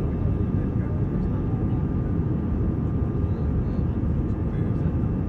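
Steady cabin noise inside an Airbus A321 airliner in flight: a low, even drone of engines and airflow, with faint steady whining tones above it.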